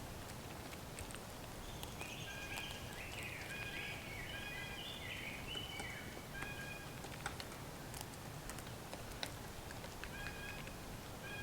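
A wild bird calling a quick run of short, stacked notes, with a second short run near the end. Scattered light clicks and taps sound throughout.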